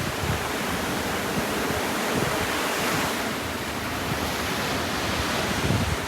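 Ocean surf: a steady wash of breaking waves that swells about halfway through, with wind buffeting the microphone in low gusts.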